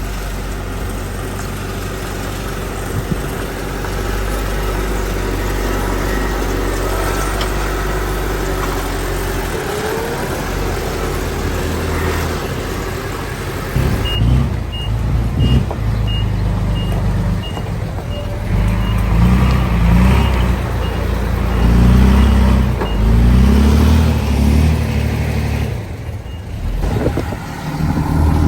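Heavy diesel earthmoving machinery running with a low rumble. About halfway through, its reversing alarm starts beeping at an even pace for several seconds while the engine works harder and revs up and down.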